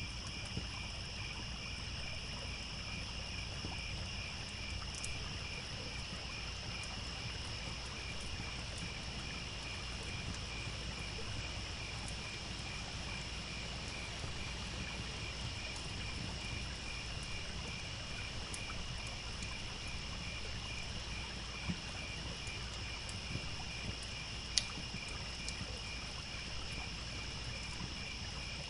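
Crickets chirping in a steady, evenly pulsing chorus over the constant low rush of a trickling stream, with a few sharp pops from a crackling wood campfire, the loudest near the end.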